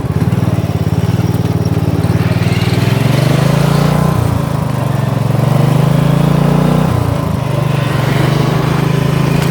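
Small engine of a homemade off-road vehicle running under way, its speed rising and falling with brief dips about four and seven seconds in. It is a freshly installed replacement engine, running smoothly.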